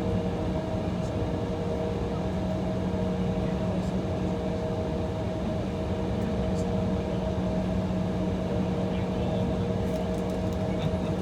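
Steady drone inside an Embraer E175's cabin as it sits idling on the taxiway waiting for takeoff: a constant low hum with two steady higher tones over a noise bed.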